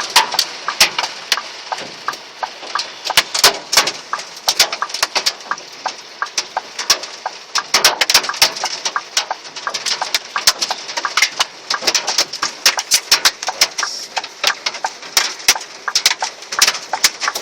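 Hail falling hard: a dense, irregular clatter of hailstones striking hard surfaces, many sharp hits a second over a steady hiss.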